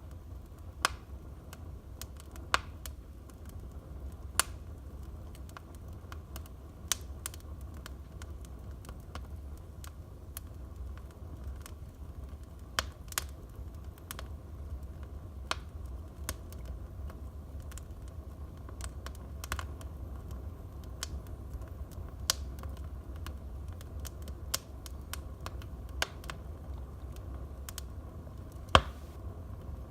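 Wood fire burning in a fireplace, crackling with scattered sharp pops at irregular times over a steady low rumble. The loudest pop comes near the end.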